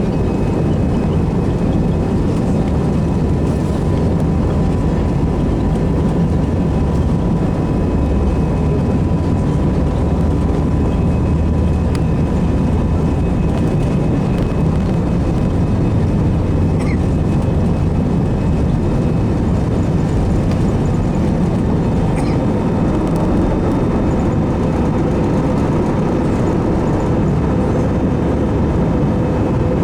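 Jet airliner taking off, its engines at takeoff power: a steady, loud roar with deep rumble and a faint steady whine, unchanging throughout.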